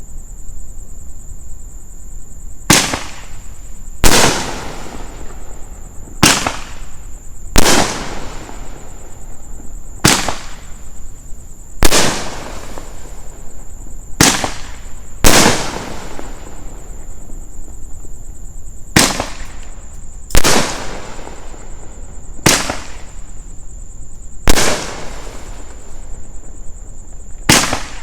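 Phantom 'Split Decision' 500-gram, 12-shot firework cake with almost 2-inch bores firing. It gives a series of sharp booms every one to two seconds, often in pairs a little over a second apart, as shots launch from the tubes and their shells break.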